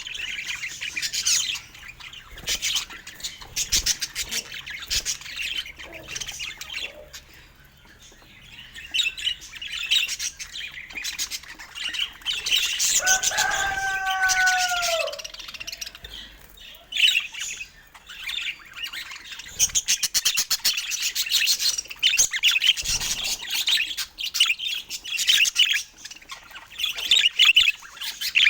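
Budgerigars chirping and chattering in fast, continuous high twitters. About halfway through, a lower drawn-out call bends down at its end.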